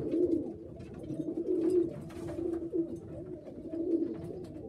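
Pigeons cooing, several low, wavering coos overlapping without a break, with scattered light clicks and taps.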